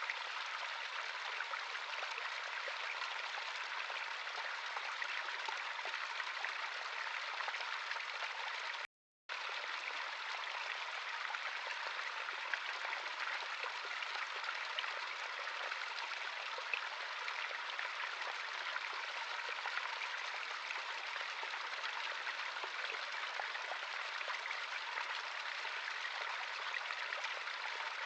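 Stream water running steadily, an even rushing and babbling, with a brief dropout to silence about nine seconds in.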